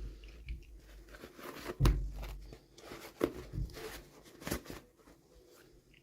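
Toy packaging being torn open and crinkled by hand: irregular rustling with a few sharp crackles, the loudest about two seconds in.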